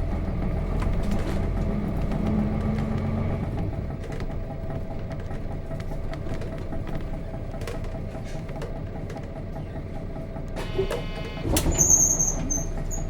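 Nissan Diesel FE6 diesel engine of a KC-RM211GSN bus heard from the cabin, running and then settling to a quieter idle about four seconds in. Near the end a buzzer sounds for under a second, followed by a sharp knock and a brief high beep.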